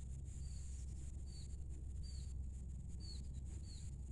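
A bird calling with short, high, downslurred chirps, about one every 0.8 seconds, five times, over a steady high-pitched drone and a low rumble.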